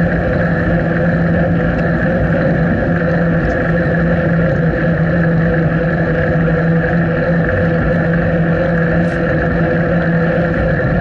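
Steady, loud wind and riding noise on a bicycle-mounted action camera, with a constant low hum underneath.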